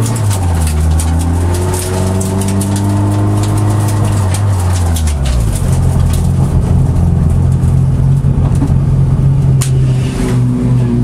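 Peugeot 106 rally car's engine heard from inside the cabin at low revs as the car rolls slowly in traffic: the engine note falls once near the start, holds, then drops to a steady idle about five seconds in. Scattered light clicks run through it.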